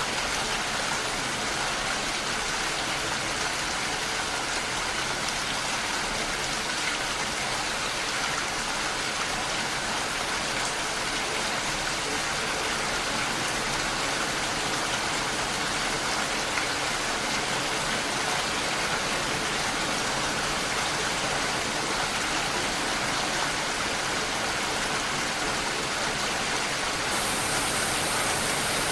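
Steady rain falling, an even hiss with no breaks; the highest part of the hiss shifts slightly near the end.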